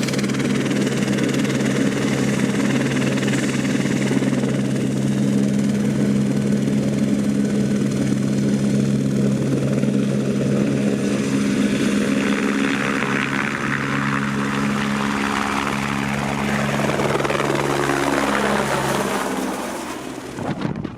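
A rotorcraft flying past with a steady, pitched drone; near the end the pitch slides down and the sound fades as it goes by.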